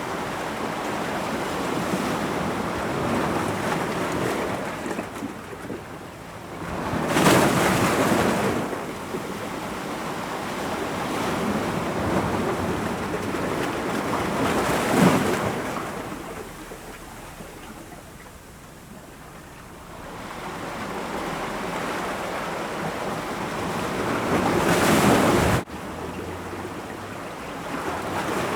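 Ocean waves breaking against rocks, a steady wash of surf with three louder crashes several seconds apart. The last surge breaks off abruptly near the end.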